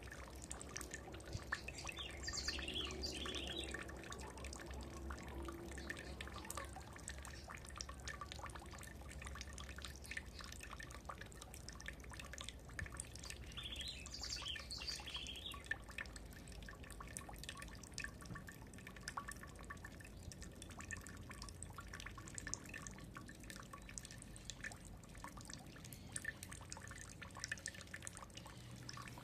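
A bird sings two short twittering phrases, about two seconds in and again about fourteen seconds in, over many small sharp clicks and a low steady hum.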